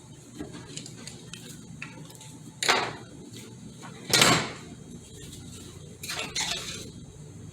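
Metal automatic-transmission parts clanking and clattering as they are handled during disassembly: three sharp metallic clatters, the loudest about four seconds in.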